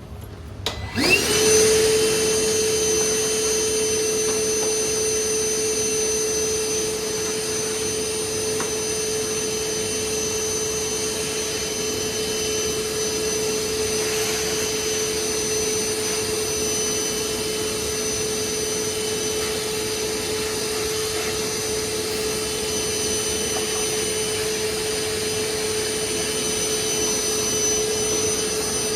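A vacuum cleaner is switched on about a second in. Its motor spins up quickly and then runs steadily with a high whine.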